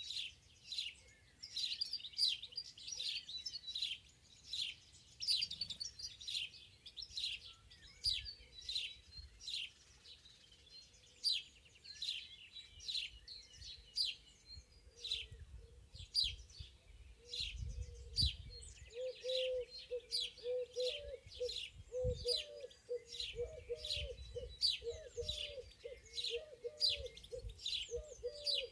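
Several songbirds chirping in a spring forest, a dense run of short, high calls. About two-thirds in, a lower call joins, repeated about twice a second.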